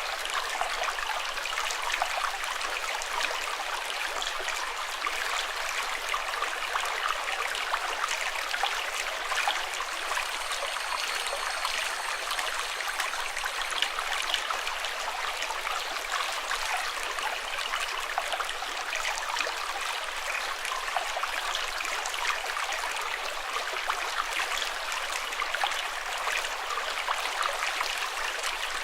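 Running water flowing steadily, an even rush with fine splashing flicker throughout.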